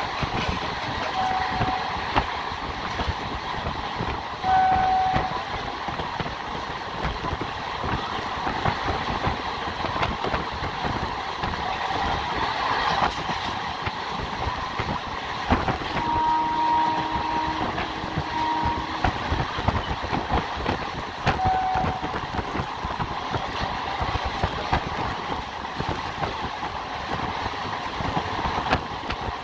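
A train running along the line, heard from on board: steady rumble with irregular wheel-on-rail clatter. A few short horn toots come near the start and near the end, and a longer horn sounds, with a break, about two-thirds of the way through.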